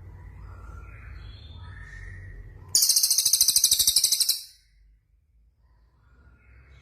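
Songbird singing: scattered faint chirps, then about three seconds in, a loud, very rapid, high-pitched trill lasting about a second and a half, breaking off into a pause before the song starts again near the end.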